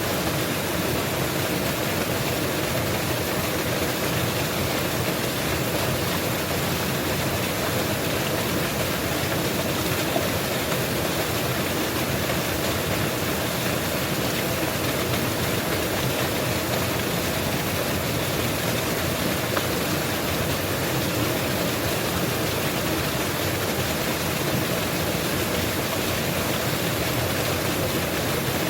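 Waterfall pouring steadily, an even rushing noise with no breaks.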